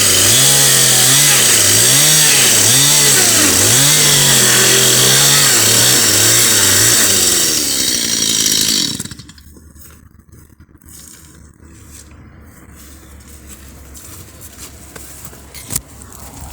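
Chainsaw cutting through roofing underlay sheets, its motor pitch rising and falling over and over as it goes in and out of the cut, then stopping suddenly about nine seconds in. Quieter clicks and rustling of handled sheets follow.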